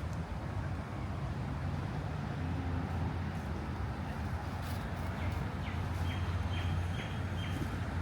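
Steady low hum of city traffic. In the second half a bird gives a run of short chirps, about two a second.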